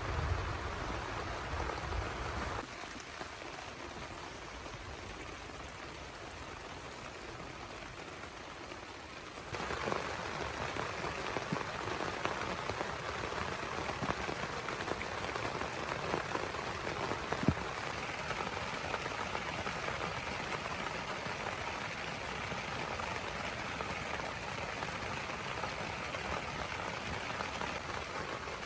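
Heavy rain falling as a steady hiss with scattered sharp drop taps. It turns quieter about two and a half seconds in and comes back louder about nine and a half seconds in, with one sharper tap a little past halfway.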